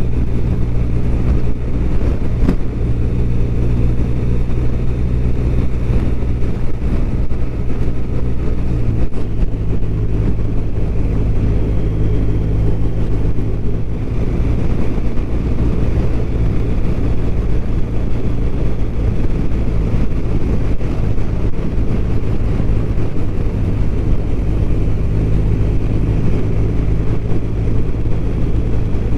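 BMW R1200RT's flat-twin engine running steadily on the move, with wind and road noise over it; the engine note shifts about nine seconds in.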